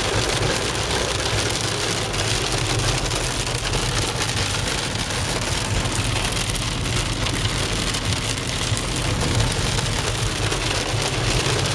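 Heavy rain falling on a car's windscreen and roof, heard from inside the cabin, over the steady low rumble of the moving car.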